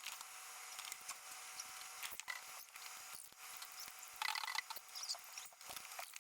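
Light clicks and scrapes of a plastic doll body and its parts being handled and worked on, with a short rapid rattle a little past four seconds in, over a steady faint hiss.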